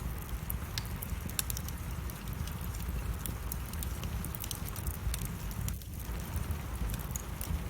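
Wood fire crackling in a fireplace: many scattered sharp pops and snaps over a steady low rumble.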